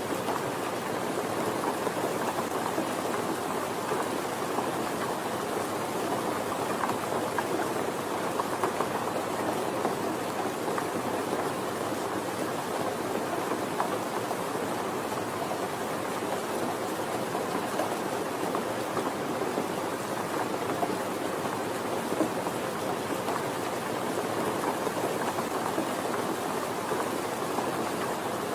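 Steady rain falling, a dense, even patter of drops with no letting up.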